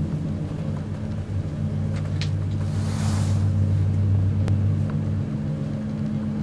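Steady running noise heard inside a moving DB ÖBB Eurocity passenger train: a low rumble and hum from the wheels and drive. A few faint clicks and a brief hiss come about two to four seconds in.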